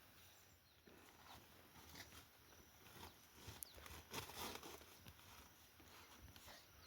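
Near silence: faint outdoor ambience with scattered small rustles and knocks, a little louder for a moment about four seconds in.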